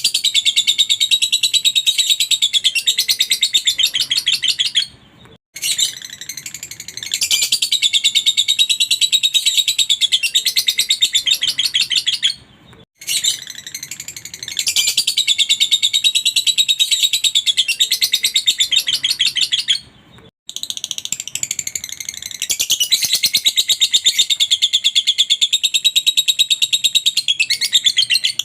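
Lovebird singing long runs of very rapid, high chattering trills in bouts of several seconds, each broken off by a brief gap.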